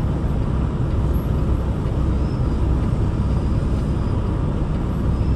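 Peterbilt 579 semi truck's diesel engine running steadily, heard from inside the cab as an even low drone.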